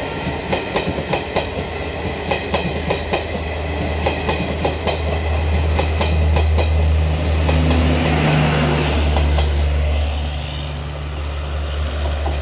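Passenger coaches of the Maharaja Express rolling past, their wheels clicking over rail joints in a quick, even rhythm for the first five seconds or so. The clicks then give way to a steady low engine hum as the rear of the train pulls away.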